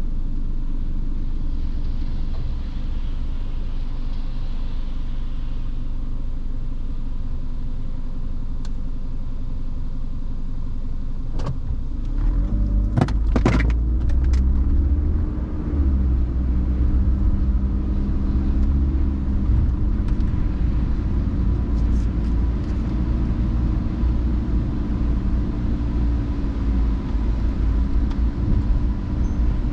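A car driving on a wet road: steady engine and tyre rumble. A few sharp clicks come about halfway through, after which the engine pulls harder, its pitch rising and then falling.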